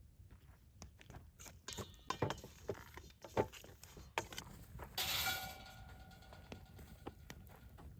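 Scattered knocks, taps and clinks of cooking gear and food being handled during meal preparation. There is a short rustling burst about five seconds in, followed by a faint ringing tone.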